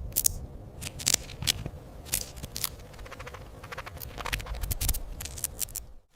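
Irregular dry clicks and scratchy crackles, some in quick runs, over a faint steady hum. The sound cuts off abruptly near the end.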